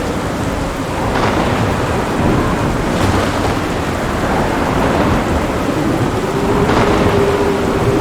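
Thunderstorm: steady heavy rain with low rolling thunder underneath, and a few short sharp cracks about a second in, around three seconds, and near the end.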